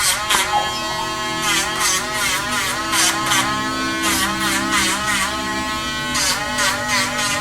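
Battery-powered dog nail grinder whirring steadily, its pitch dipping and recovering again and again as it is pressed to a small dog's nails.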